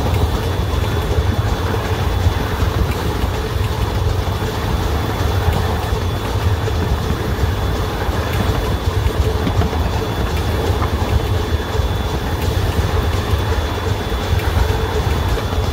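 Small-gauge railway locomotive and its train running along the track: a steady rumble of wheels on rails.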